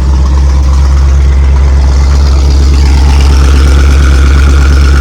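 1979 Mercedes-Benz 450 SLC's 4.5-litre V8 idling steadily, with a higher whine coming in about halfway through.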